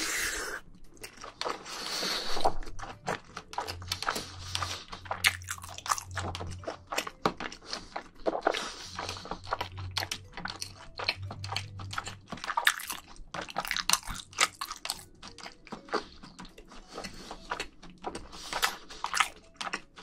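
Close-miked chewing of a mouthful of jjajangmyeon, noodles and meat in black bean sauce: continuous wet, sticky mouth sounds with many quick smacks and clicks.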